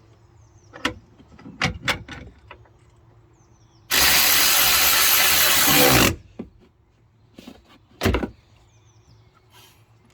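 A few clunks of metal parts being handled, then a power driver runs for about two seconds and winds down as it stops, fastening the new tailgate latch; one more loud knock follows.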